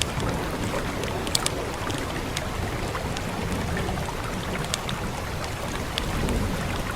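Steady rain hiss with the scattered sharp pops and snaps of a crackling wood fire.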